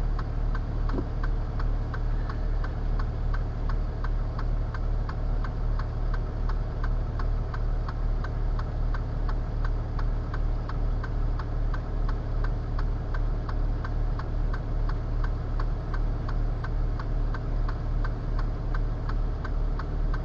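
Truck engine idling steadily under the rapid, even clicking of the indicator flasher relay, a bit over two clicks a second, heard from inside the cab.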